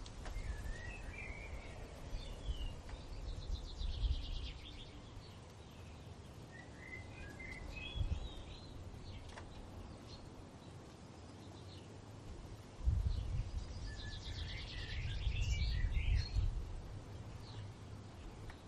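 Songbirds singing in short warbling, trilling phrases that come in several separate bursts, the busiest near the end. Under them runs a low rumble of wind, swelling strongly for a few seconds near the end.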